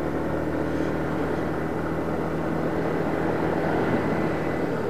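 Yamaha MT-15 motorcycle's single-cylinder engine running steadily at an even cruising speed, with wind and road noise over the microphone.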